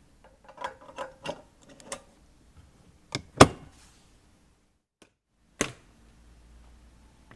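Several light clicks and knocks with a short metallic ring, then a sharp, loud knock a little before the middle and another knock about two seconds later.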